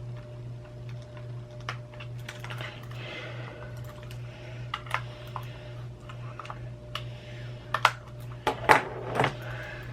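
Irregular small plastic clicks and taps as a tool works at a computer mouse's casing, with a cluster of louder clicks near the end. A steady low hum runs underneath.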